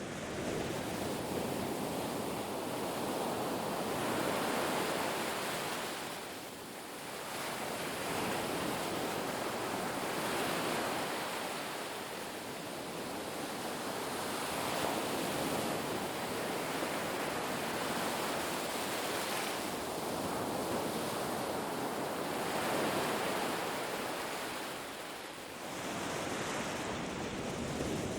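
Ocean waves breaking and washing on a beach: a continuous rush of surf that swells and eases every few seconds, dipping briefly twice.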